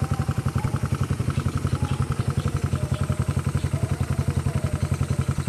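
Honda motorcycle engine idling in gear with no throttle, turning the rear wheel and drive chain while the bike stands on its centre stand; an even, steady pulsing of about twelve beats a second.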